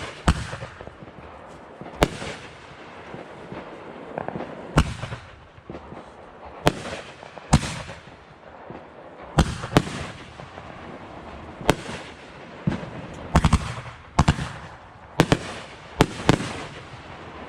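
Fireworks going off, sharp bangs at irregular intervals of one to two seconds, some in quick clusters, with crackling between them.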